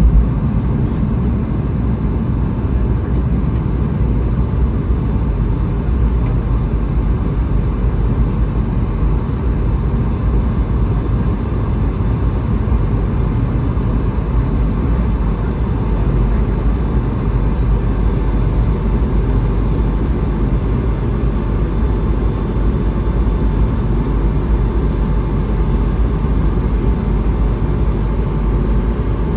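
Steady cabin noise inside an Airbus A220-300: an even, deep rumble of its Pratt & Whitney PW1500G geared turbofan engines and airflow, with a faint steady tone above it.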